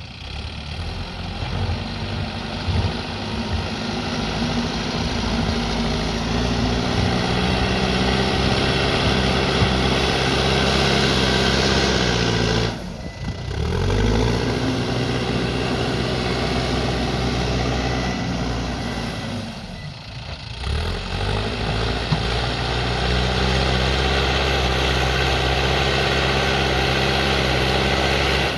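Backhoe loader's diesel engine working, its pitch climbing as it revs under load and settling again several times, with two brief drops in level about a third and two-thirds of the way through.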